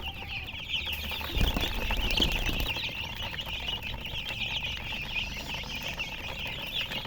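A crowd of baby chicks peeping continuously, many short high chirps overlapping, with a few low bumps about a second and a half in.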